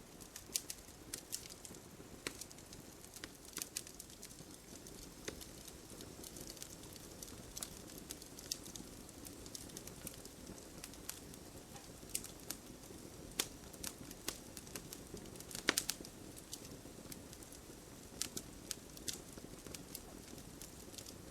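Wood campfire burning with a steady low hiss and irregular sharp crackles and pops, one louder pop about three-quarters of the way through.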